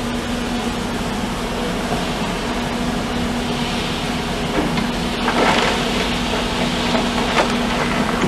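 Heavy demolition machinery running with a steady engine hum, with a few sharp knocks and clatter of material, loudest a little past the middle.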